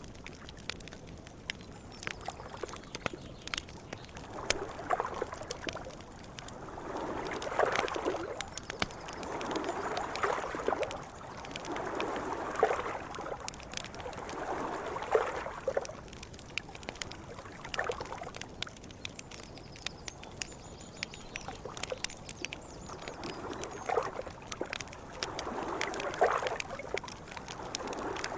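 Small campfire crackling with sharp pops throughout, while small wake waves lap against the river bank in a run of swells about every two and a half seconds, fading away in the middle and returning near the end.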